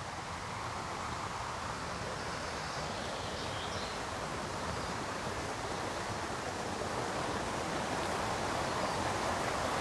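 Steady rush of river rapids, an even whitewater noise that slowly grows louder.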